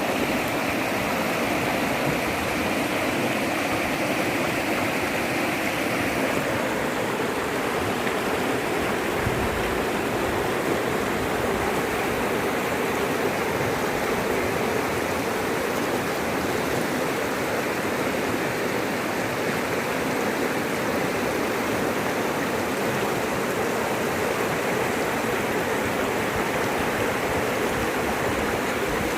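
Floodwater rushing in a steady, loud roar, its tone shifting slightly about six seconds in.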